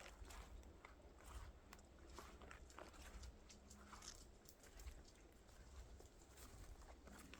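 Faint, irregular crunching footsteps in snow, several soft crunches a second, over a low rumble.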